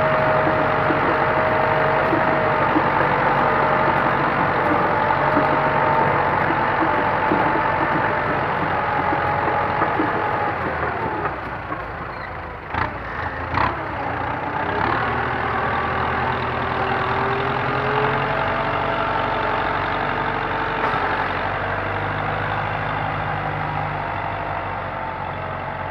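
Kubota M9540 tractor's four-cylinder diesel engine running steadily. About halfway through it drops lower and there are two sharp knocks, then it picks up again.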